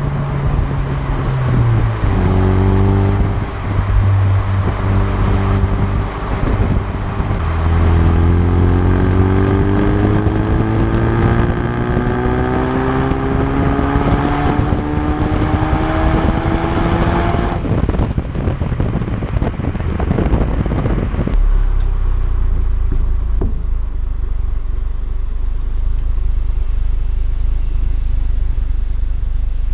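2018 Ford Focus RS's 2.3-litre turbocharged four-cylinder engine and stock exhaust, driving. The note holds steady, then climbs in pitch for about ten seconds under acceleration. It breaks off suddenly about two-thirds of the way through and gives way to a lower rumble.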